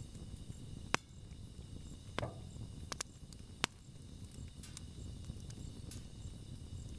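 Wood campfire burning with a low steady rumble, and a few sharp crackling pops from the burning wood: one about a second in, a cluster around two to three and a half seconds in.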